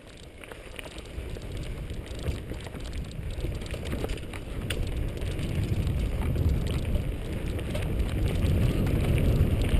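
Mountain bike rolling along a dirt trail: tyre noise and wind rumble on the bike-mounted camera's microphone, growing steadily louder, with scattered short rattles and clicks.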